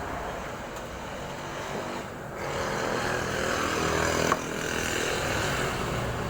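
A truck engine running steadily, getting louder about two seconds in, with a single sharp click a little past the middle.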